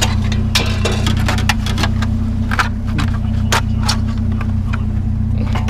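Scrap metal items clanking and scraping as they are shoved into a loaded truck, a quick irregular series of sharp knocks. Under it is the steady hum of the idling truck engine.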